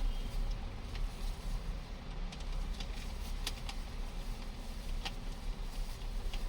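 A few scattered light clicks and taps from the plastic parts of a laser-printer drum cartridge being handled, over a steady low hum.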